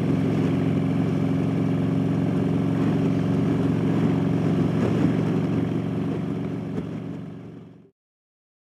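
Motorcycle engine running steadily at road speed, with wind noise over the microphone, fading out near the end.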